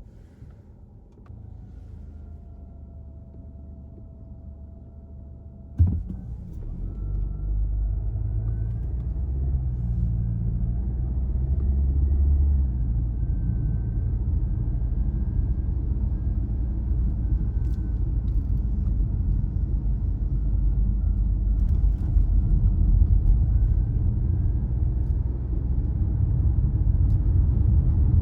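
A car driving on wet roads: quiet for the first few seconds, then a sharp knock about six seconds in, after which low road and tyre rumble builds and holds steady. A faint whine rides above it, drifting slowly in pitch with speed.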